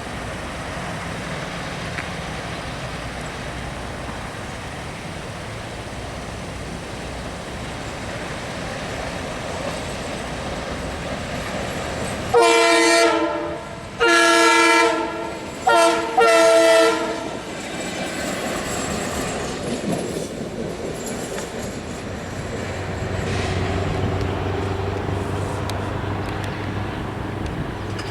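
Multi-tone train horn blowing the grade-crossing signal about halfway through: two long blasts, a short one and a long one. Before it a steady rumble of the approaching train; after it wheels clacking over the rail joints and a steady low diesel engine hum as the train passes.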